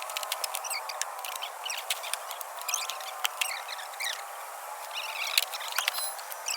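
Small birds chirping and twittering in many quick overlapping calls, with scattered sharp clicks.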